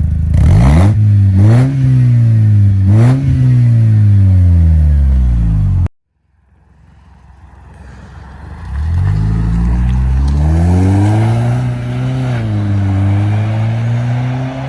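Supercharged four-cylinder engine of a 2004 Mercedes C230 Kompressor being revved through an exhaust with the resonator cut out and replaced by a straight pipe ahead of a Borla muffler. Two quick revs rise and fall, the sound cuts off abruptly about six seconds in, then the engine fades back in, climbs, and gives one more rev before settling.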